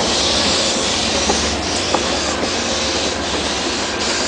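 Train departing behind steam locomotive 3751, rolling past with a steady rushing noise and a couple of sharp clicks from wheels on the rails.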